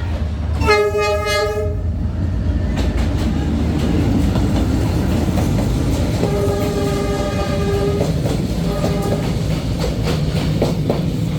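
D19E diesel-electric locomotive sounding its horn three times: a blast of about a second just after the start, a longer blast of about two seconds around six seconds in, and a brief third right after it. Underneath runs the steady rumble of the locomotive and its carriages rolling past, with wheels clicking over the rail joints later on.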